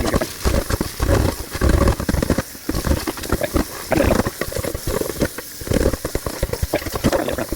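Water running and splashing in a kitchen sink as the glass microwave turntable tray is rinsed and scrubbed to lift stuck-on burnt paper towel, in irregular uneven surges.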